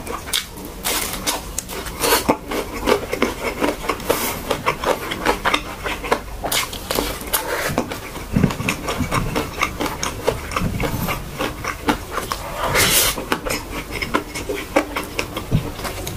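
Close-miked eating: a person biting and chewing a strip of Spam with mustard and mayo, full of quick wet mouth clicks and smacks, with a few louder chewing bursts.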